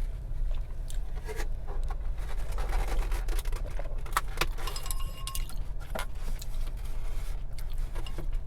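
Light clinks and taps of dishes and utensils being handled, with one ringing clink about five seconds in, over a steady low hum.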